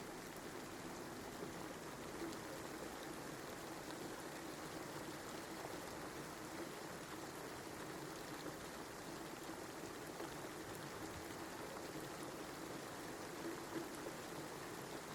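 Steady rain: an even hiss of falling water with a few faint drop ticks.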